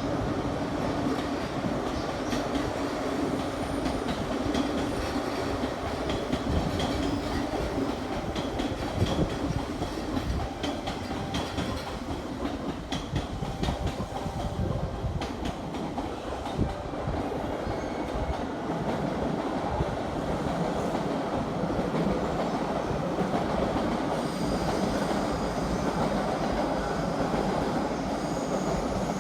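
Electric passenger trains moving through a station platform: steel wheels clacking over rail joints with some wheel squeal, then a steadier running sound with a faint high whine near the end, as the Narita Express arrives and a Keihin-Tohoku Line train departs.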